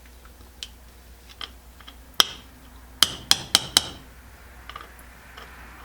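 Small metal parts of a camp stove clinking and tapping on a hard surface: faint ticks, a sharp click about two seconds in, then four quick ringing taps about a second later.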